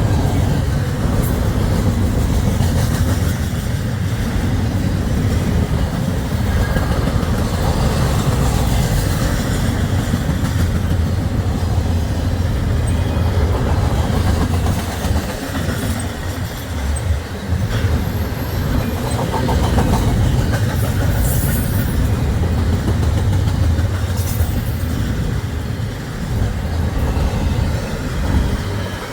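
Norfolk Southern freight train rolling past on the rails: a steady, loud rumble of cars and wheels clattering over the track, with a few brief high-pitched wheel squeals in the second half.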